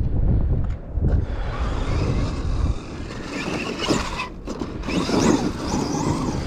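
Kyosho USA-1 electric RC monster truck driving over dirt and rock: the battery-powered motor and drivetrain rise and fall in surges with the throttle, over the noise of the tyres on the ground.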